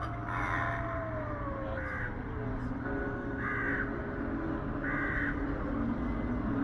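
Halloween animatronic's recorded sound effects playing through its speaker: a slow falling tone, then short harsh crow-like screeches about every one and a half seconds over a low hum.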